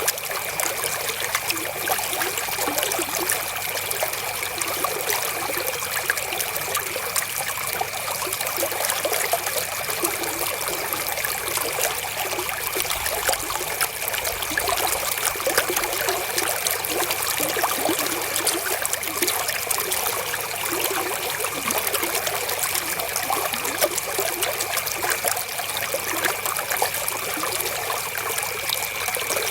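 River water flowing and trickling steadily over stones, an even rushing that never pauses or changes.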